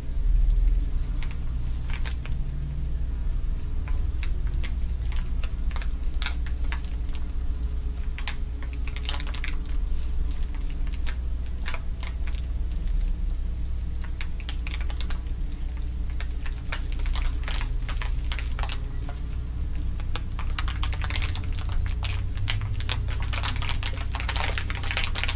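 Layered crinkling of a crinkly material: scattered crisp crackles that grow denser near the end, over a steady low hum.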